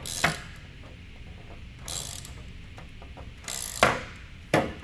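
Hand ratchet clicking in four short bursts as it is worked back and forth, slowly snugging down small nuts by hand, with a few sharper clicks among them.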